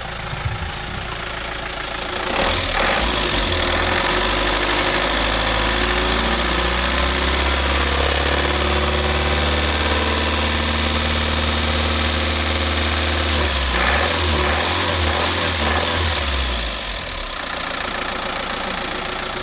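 Mitsubishi Rosa bus's 4D33 four-cylinder diesel engine running, getting louder about two seconds in and dropping back to a quieter idle near the end.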